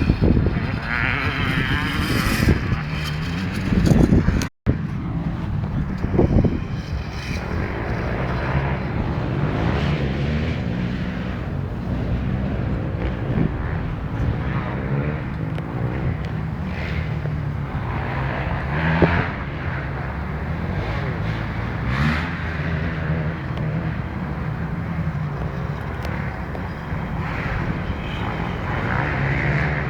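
Small motocross bike engine running, its pitch wavering up and down with the throttle, with a brief instant cut in the sound about four and a half seconds in.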